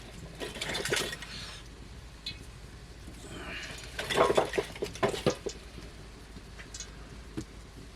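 Dishes and cooking utensils being handled: a short scrape about half a second in, then a cluster of knocks and clinks in the middle, with a few stray clicks near the end.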